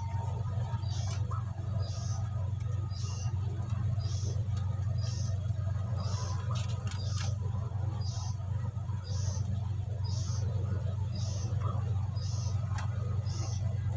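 A steady low hum, with a short high chirp repeating about once a second and a few faint clicks.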